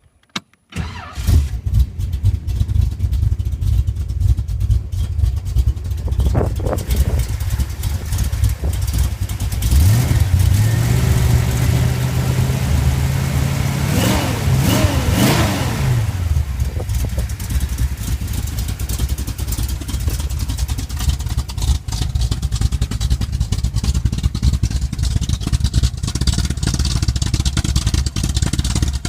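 1934 Ford roadster's 454 big-block V8 running at a loud, uneven idle. About a third of the way in it is revved up and held for a few seconds, then blipped quickly a couple of times before settling back to idle.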